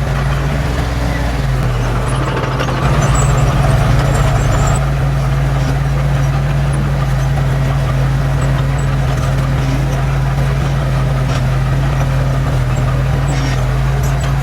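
Diesel engine of heavy earthmoving machinery running steadily, louder for about two seconds starting about three seconds in.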